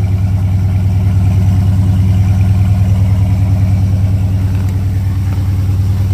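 2018 Dodge Charger Daytona 392's 6.4-litre HEMI V8 idling steadily through its exhaust, about a minute after a cold start following two days sitting in sub-freezing cold.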